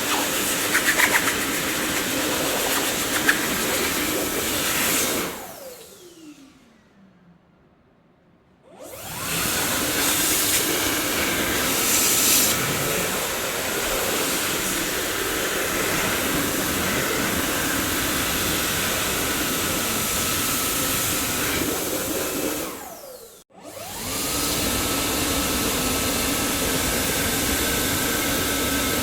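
Dyson vacuum cleaner motor running steadily. About five seconds in it is switched off and winds down with a falling whine to a few seconds of near silence, then starts up again. It cuts out briefly once more near the end and comes straight back with a steady high whine.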